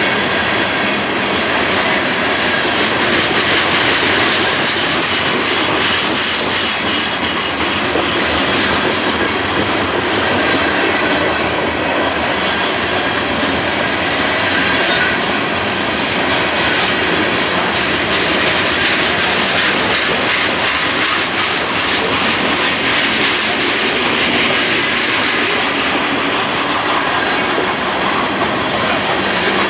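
A passing train's cars rolling steadily by on the rails, with wheels clattering over the track and some wheel squeal.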